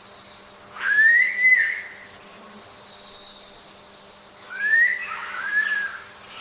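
A bird's clear whistled calls: two phrases of notes that rise and then fall, each about a second long, the second a pair of notes. A faint steady hum lies underneath.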